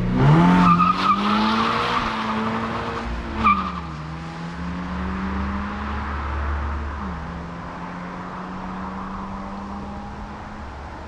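2023 Toyota GR86's 2.4-litre flat-four engine revving hard in a full-throttle launch, with short tyre chirps about a second in. The pitch drops at a gear change about three and a half seconds in, with another chirp, and again at a second change about seven seconds in, while the sound fades gradually.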